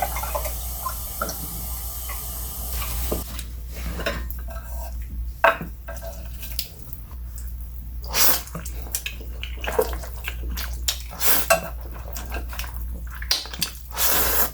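Close-miked mukbang eating of spicy instant pancit canton noodles: wet chewing and slurping, with short clicks of utensils against the plate.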